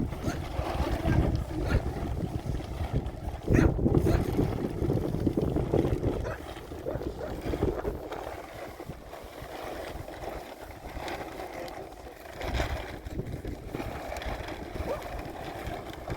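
Wind gusting over the microphone: a rumbling, uneven rush, strongest in the first few seconds and again briefly near the end.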